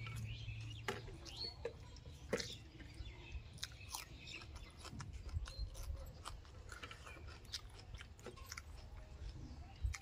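A person eating rice and fish curry with his fingers: chewing and lip-smacking, with many small wet mouth clicks, over a steady low rumble.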